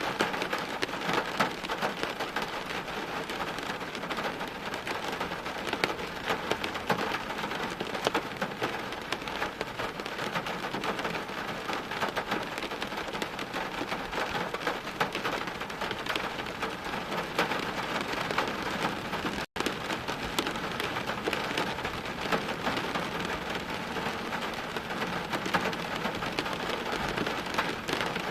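Steady heavy rain, a dense pattering of countless drops on hard surfaces. It breaks off for an instant about two-thirds of the way through.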